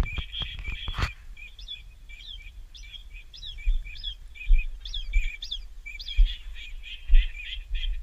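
A bird calling over and over in a quick run of short high chirps, some sweeping sharply upward. A few sharp clicks come in the first second, and dull low bumps hit the microphone every second or so.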